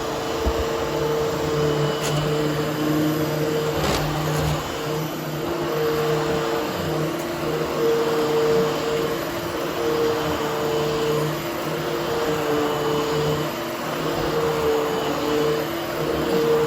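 Hoover Hushtone upright vacuum cleaner running steadily while grooming a carpet. Its motor hum steps up and down in pitch every second or so, with a couple of light clicks in the first few seconds.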